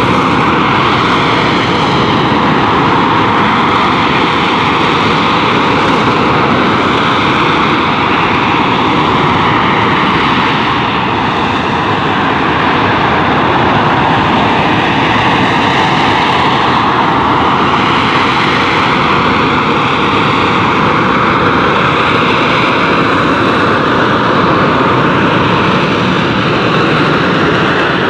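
Rolls-Royce Pegasus turbofan of an AV-8B Harrier II jump jet running loud and continuous, its tone drifting slowly up and down.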